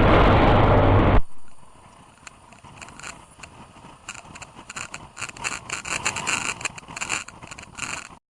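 Loud vehicle and road noise that cuts off abruptly with a sharp bang about a second in. It is followed by quieter, irregular crackles and ticks.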